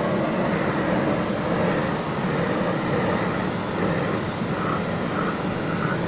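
Steady machine drone with a low hum and a rushing hiss, running evenly without a break.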